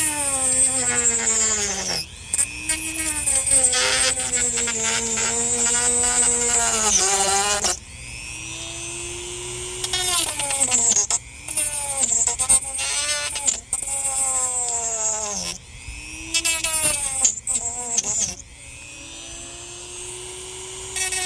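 Small high-speed rotary tool cutting through a dried gourd shell. Its whine drops in pitch as the bit bites and climbs back as it frees, over and over, with short pauses between cuts.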